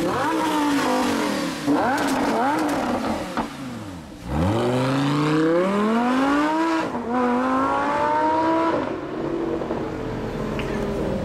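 Supercar engine revving in a few quick blips, then accelerating hard: the pitch climbs steadily, drops suddenly at a gear change and climbs again before fading away.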